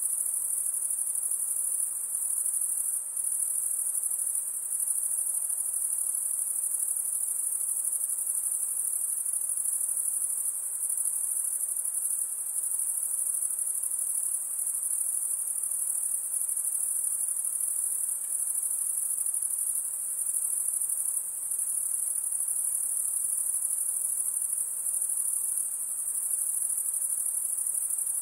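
A dense, continuous high-pitched chorus of insects, most likely crickets, running on without pause with only brief small dips in level.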